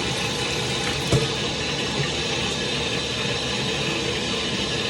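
Tap water running steadily into a pot, with a short knock against the pot about a second in.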